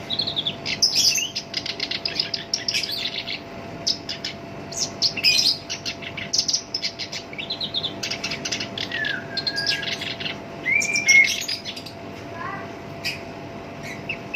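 Black-browed reed warbler singing a harsh, rough song of rapid chattering note-trains mixed with a few short whistled notes.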